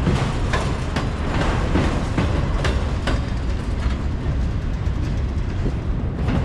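Freight train cars rolling past, a steady rumble with repeated sharp clicks of the wheels over rail joints.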